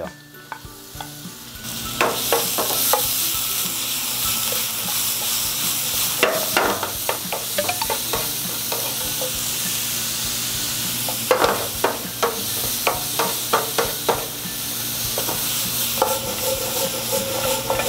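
Minced garlic and sliced carrot sizzling in hot oil in a nonstick frying pan, the sizzle building up about two seconds in. A wooden spatula stirs them, clicking and scraping against the pan now and then.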